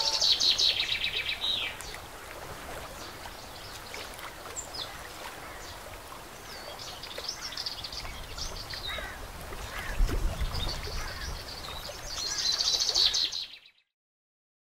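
Birds chirping and trilling, with louder trills at the start and again near the end. There is a low bump about ten seconds in, and the sound stops abruptly shortly before the end.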